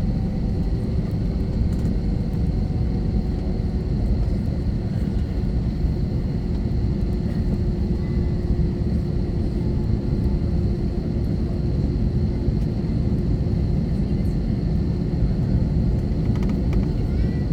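Steady low rumble in the cabin of an Airbus A321-231, its IAE V2500 engines running at low power on the ground before takeoff, with a faint steady whine over it.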